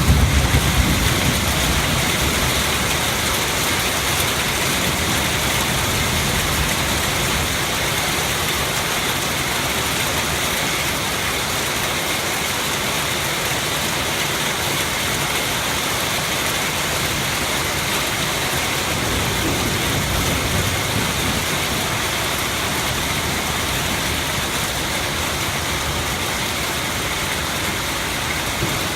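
Heavy rain falling, a steady hiss throughout, with a low rumble at the very start and again about twenty seconds in.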